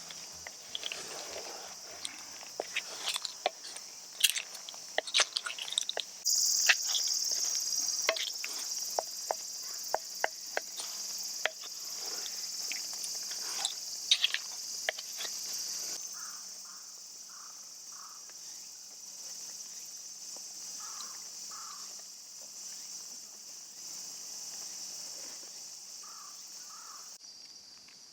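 A steady high-pitched insect chorus, with many sharp clicks and crackles through the first half. The chorus turns suddenly louder about six seconds in and drops back about ten seconds later.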